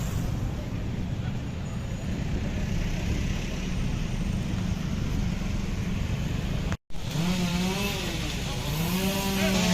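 A steady, noisy low rumble of outdoor street noise. After an abrupt cut about seven seconds in, a small two-stroke chainsaw engine runs, its pitch rising and falling as it is throttled.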